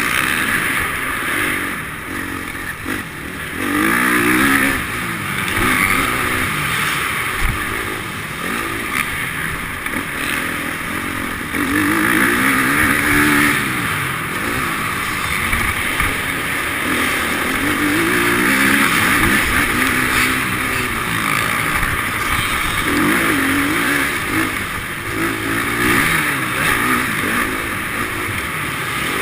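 Motocross motorcycle engines running hard, their pitch climbing and dropping over and over as the bikes accelerate and back off around the track.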